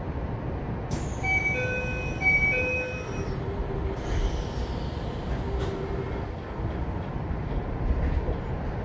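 Running noise of a Keikyu 1000 series electric train with Mitsubishi full-SiC VVVF control, heard inside the car: a steady low rumble of wheels and motors. About a second in a sudden rush of noise begins. Over it a two-note ringing signal sounds twice, and a high whine falls in pitch near the middle.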